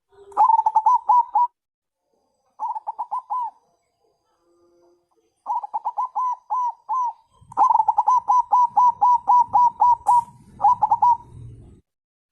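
A dove calling in fast runs of short, bubbling coo notes, five runs of varying length with pauses between them. It is the caller-type call of a female calling a male. A faint low rumble sits under the later runs.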